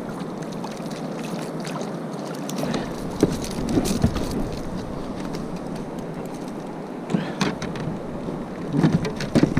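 Steady wind and water noise around a sea kayak, with scattered knocks and rustles from handling gear on board.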